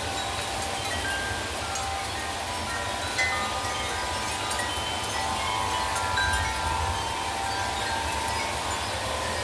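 Wind chimes ringing in gusting wind, many metal tones at different pitches overlapping continuously, over a steady rush of wind and rain with low wind rumble on the microphone.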